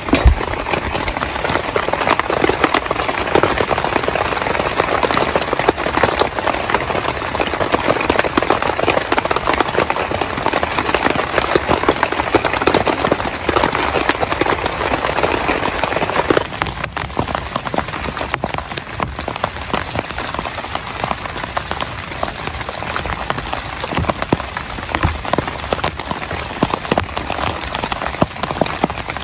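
Heavy rain falling on a tent: a dense, steady spatter of countless drops that eases slightly a little past the middle.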